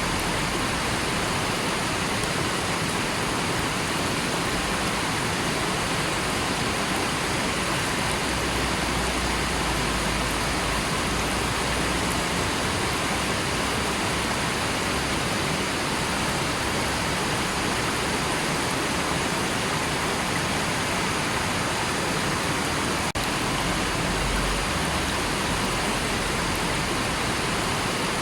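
River water rushing, a steady, unbroken noise across low and high pitches.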